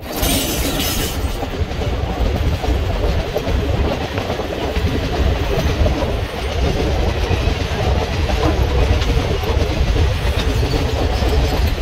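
Passenger train of sleeper coaches passing close by at speed: a steady loud rumble and clatter of wheels on the track.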